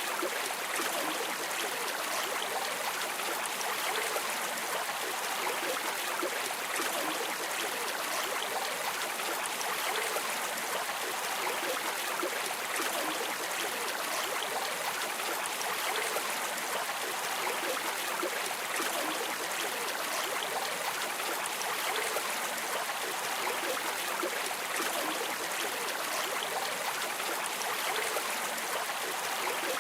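River water streaming and trickling in a steady, even rush.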